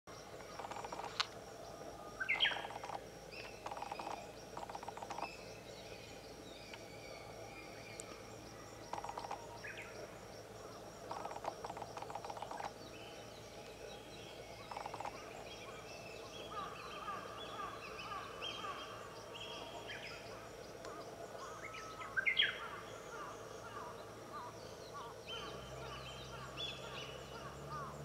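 Small songbirds calling in short chirping bursts, some as quick runs of repeated notes, with the loudest sharp rising calls about two seconds in and again past twenty seconds. A low hum comes in near the end.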